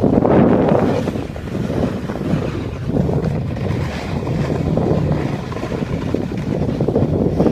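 Wind buffeting the microphone, loud and gusting, mixed with the rough scrape of a snowboard sliding over icy snow.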